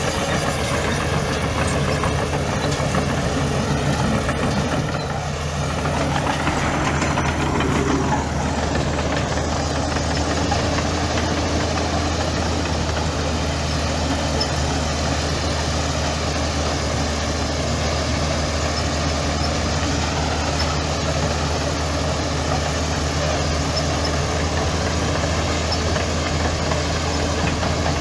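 Heavy diesel engine running steadily at low revs. It dips briefly about five seconds in, then picks up again.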